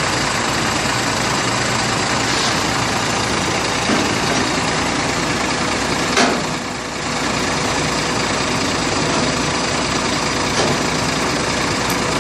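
Heavy Scania truck diesel engine running steadily, with a faint steady hum and a few short knocks over it.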